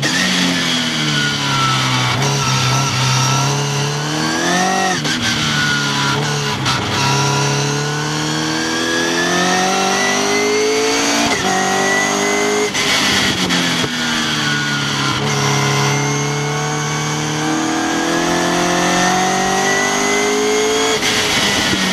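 Westfield sports car's engine heard onboard at speed on track. Its pitch climbs steadily under acceleration, drops briefly at an upshift, and falls away as the driver lifts and brakes for corners. There is a quick rise and fall about five seconds in.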